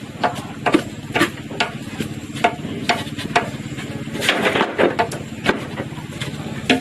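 Irregular knocks and clatters, about one or two a second, over a steady low hum.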